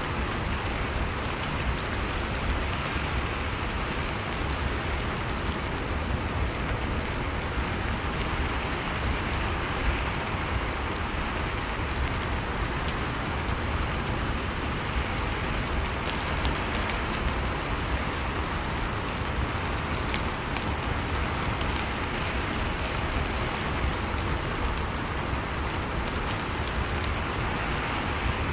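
Steady rain falling, a constant even hiss with faint patter of drops on a surface.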